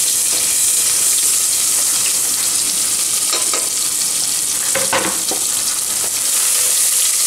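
Onions frying in hot tempering oil in a pan, a steady sizzle, with a couple of light knocks from stirring about halfway through.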